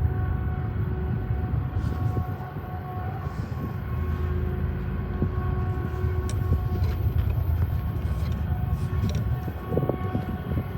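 Diesel freight train running steadily past, a heavy low rumble with a steady engine drone.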